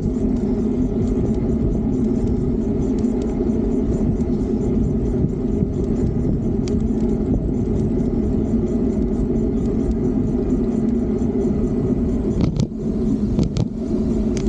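Steady low rumble of wind and road noise from riding a Fiido D3 Pro electric bike, with a constant low hum underneath. A few sharp clicks near the end.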